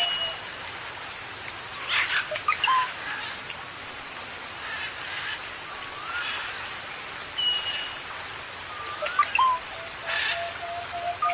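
Several birds chirping and whistling: short rising whistles, bursts of chirps about two seconds in and again near the end, and a quick run of short notes on one pitch at the start and from about nine seconds in, over a steady hiss.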